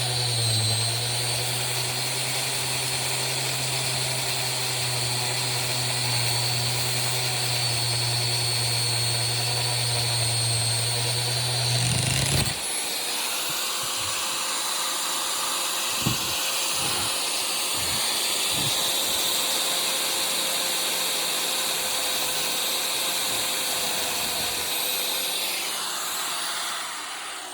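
Electric angle grinder running under load as its cutoff wheel cuts metal; about halfway through the cutting noise drops away and the motor whine rises as it runs free, which fits the wheel snapping off on a bad spot. A few knocks follow, and near the end the grinder winds down.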